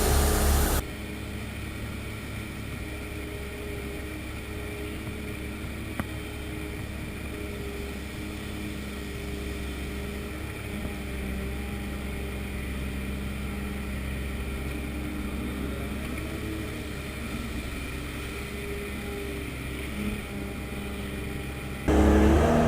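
Heavy diesel engine running steadily with an even low drone, with one sharp click about six seconds in.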